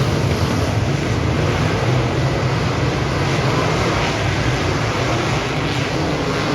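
Dirt modified race car engine running loudly and steadily, mixed with rushing wind noise.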